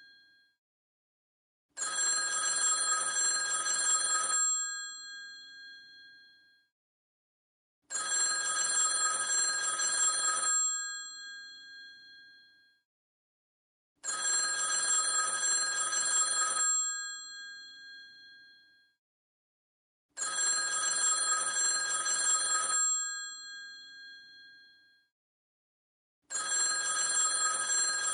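Old telephone's bell ringing in repeated rings, five in all, each about three seconds long and dying away, coming about every six seconds.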